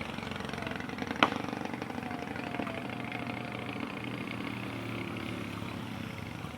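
Vehicle engines running steadily on the hill climb, with one sharp click about a second in.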